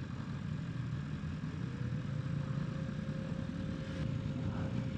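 Motorcycle engine idling: a steady low rumble, with a faint steady whine coming in about a second and a half in.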